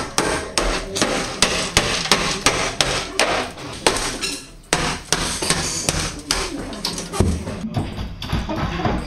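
A hammer striking over and over, about two or three blows a second, as material is knocked out during demolition.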